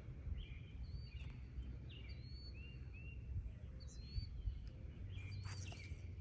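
Birds chirping, many short high chirps repeating throughout, over a low steady rumble.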